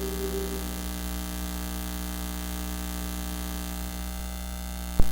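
Steady electrical mains hum in the sound system, a low buzz with its overtones: the fault behind the recording's bad sound. A held musical note fades out in the first second, and a single sharp pop comes near the end.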